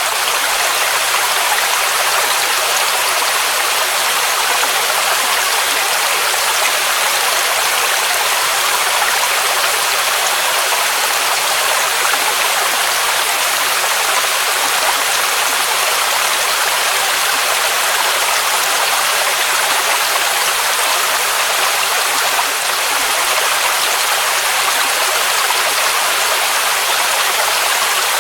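Waterfall rushing: a steady, unbroken roar of falling water, its sound mostly in the mid and high range with little bass.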